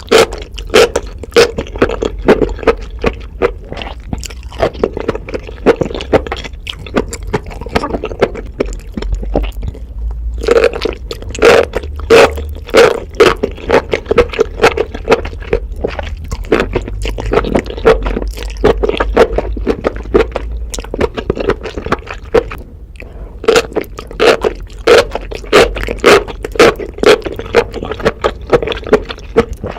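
Close-miked chewing of enoki mushrooms: a rapid, loud run of sharp wet crackles and clicks, several a second. It breaks off briefly twice, near a third of the way in and again after about three quarters.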